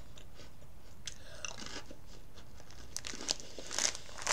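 Chewing thin, crisp sesame snack crackers: faint, irregular crunches that come more often near the end.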